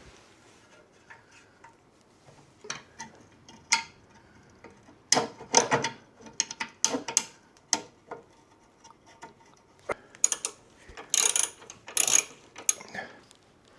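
Irregular metallic clicks and clanks of hand tools working on the car's steel front-end structure as the replacement radiator support cradle is bolted and adjusted into place, with busier flurries about five and eleven seconds in.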